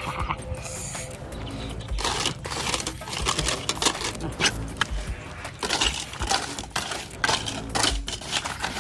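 Rapid clicking and clinking of small hard objects, sparse at first, then dense from about two seconds in.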